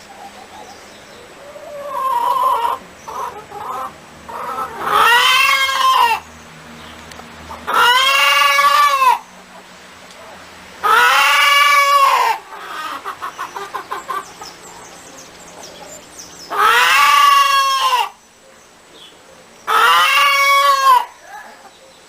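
Chickens calling: five long, drawn-out squawks that rise and fall in pitch, each over a second long and a few seconds apart, with a quick run of short clucks between the third and fourth.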